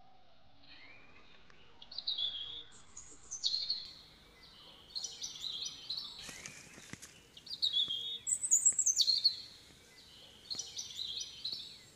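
Birds singing and calling in repeated bursts of high chirps and short falling whistles, a few seconds apart and loudest about eight to nine seconds in.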